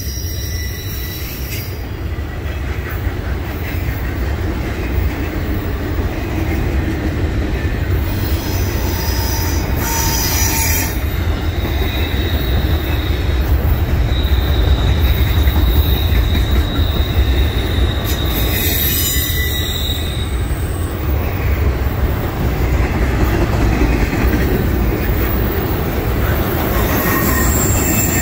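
Double-stack intermodal container cars rolling past, their steel wheels on the rail making a steady, heavy low rumble. From about ten seconds in to about twenty seconds in, a high, steady wheel squeal rides over it.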